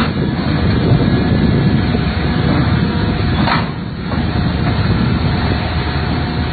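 Steady low rumble of a vehicle on the move, engine and road noise as picked up by a dashcam, with one short sharper noise about three and a half seconds in.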